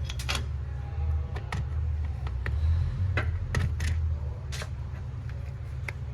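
Scattered clicks and light knocks of a screwdriver and hard plastic parts as the flathead screws and end cap come off a DeWalt DWE402 angle grinder's rear housing, over a steady low hum.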